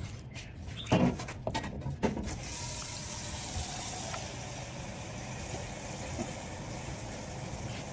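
A few knocks and clatters, then water running steadily from a tap, as into a sink or basin, from about two seconds in.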